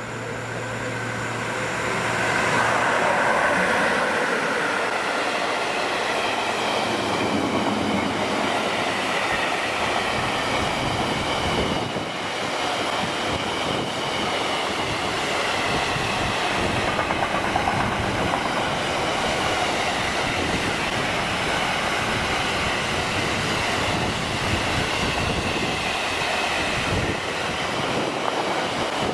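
Siemens Vectron-type...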